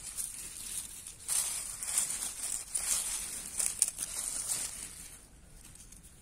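Irregular rustling, crinkling and tearing of leafy wild greens being picked and handled by hand, dying down near the end.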